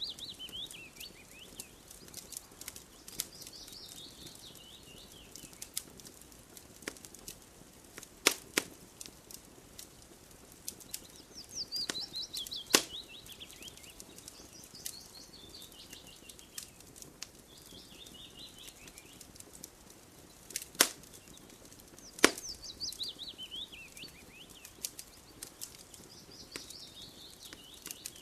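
Wood fire crackling with scattered sharp pops, the loudest about 8, 13, 21 and 22 seconds in. A bird repeatedly sings a falling series of quick high notes every few seconds.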